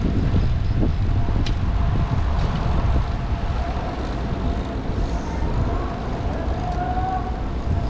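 Wind rushing over the microphone of a road bicycle rider at speed, mixed with steady road noise.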